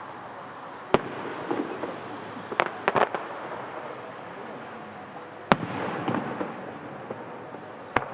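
Aerial firework shells bursting with three sharp bangs: about a second in, in the middle, and near the end. Between the bangs comes a quick cluster of crackling pops, and crackle trails off after each bang.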